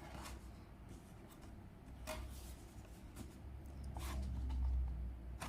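Cardboard box being opened and its packing handled: faint scraping and rustling, with a few short scratchy sounds and a low rumble of handling about four seconds in.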